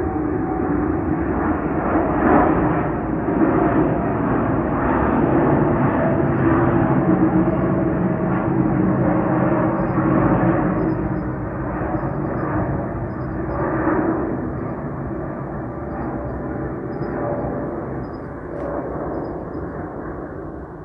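Boeing 777 twin jet engines at takeoff thrust: a steady deep roar with a droning tone in it, slowly fading over the last several seconds.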